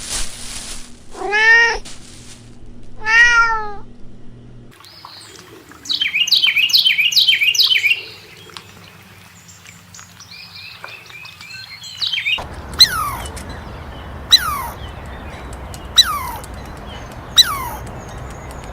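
A domestic cat meowing twice, then a short burst of rapid bird chirping, then a series of short, sharp high calls falling in pitch, about one every second and a half.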